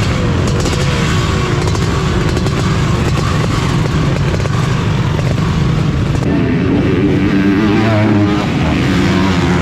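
Motocross dirt bikes running and revving on the track, their engine pitch rising and falling as they go through the gears.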